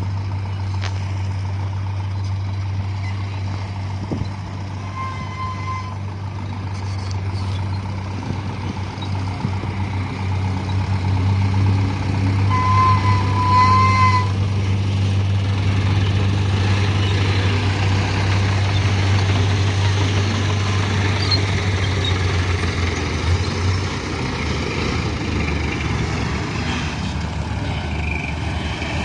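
Mitsubishi Canter HDX dump truck's diesel engine running steadily, getting louder and rougher for a stretch in the middle. Short high beeps sound twice, about five seconds in and again around thirteen seconds.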